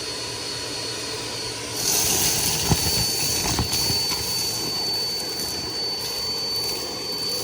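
Bissell PowerForce Helix upright vacuum running with a steady high whine. About two seconds in the rush of air grows louder, with a few knocks soon after.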